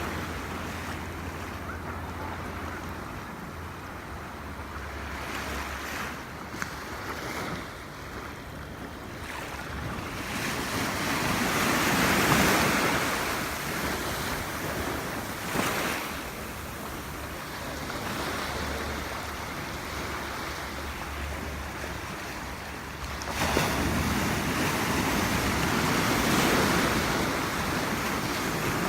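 Small ocean waves lapping and washing onto the beach, a steady wash that swells louder about a third of the way in and again for the last few seconds.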